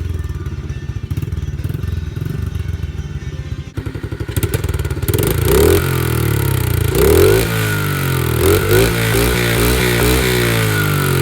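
Small 49cc dirt bike engine idling with a steady low pulse, then, about four seconds in, revved up and down several times.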